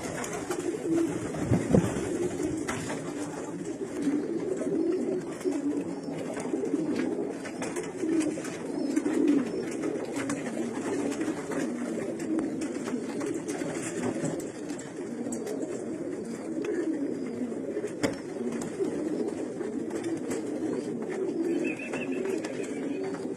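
Domestic pigeons cooing steadily throughout, a continuous low warbling, with scattered small clicks.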